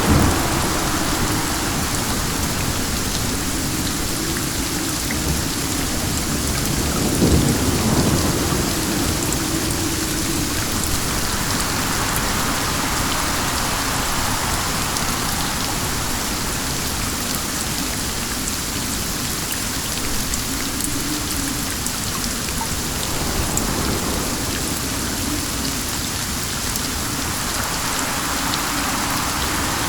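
Steady heavy rain pattering on a surface, mixed with wind that swells and fades every several seconds. About seven seconds in there is a brief low rumble.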